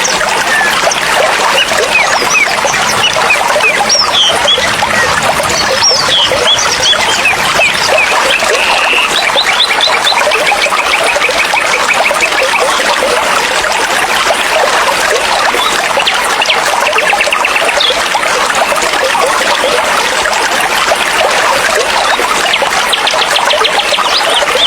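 Forest stream running steadily over rocks, a continuous babbling rush of water. Small birds call over it with short whistled chirps and sweeps, and a rapid trill several seconds in and again near the end.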